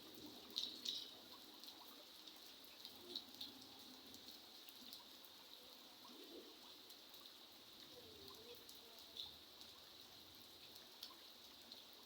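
Faint light rain, a soft steady patter with individual drops ticking, a few louder drops about half a second in and again around three seconds.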